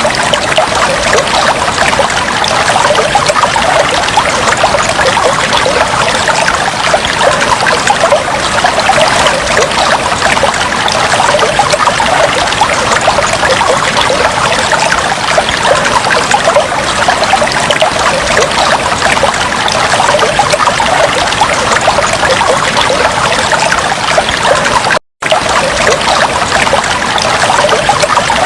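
Aquarium water trickling and bubbling steadily, with a momentary cut-out to silence about three seconds before the end.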